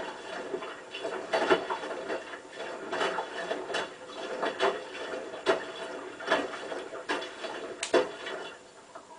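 Hotpoint WT960 washing machine drum turning during the wash, with a series of irregular swishing knocks about once a second that die away near the end.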